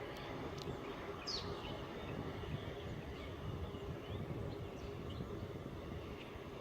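Outdoor airport ambience: a steady low rumble with a faint constant hum, and a few short bird chirps scattered through it, one clearer chirp about a second and a half in.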